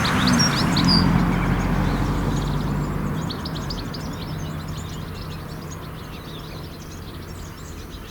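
Jet engine noise of an Airbus A320-214 with CFM56 engines climbing away after take-off, fading steadily. Small birds chirp throughout.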